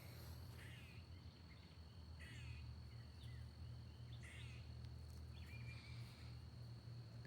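Faint bird chirps about once a second, over a steady high thin tone and a low steady hum.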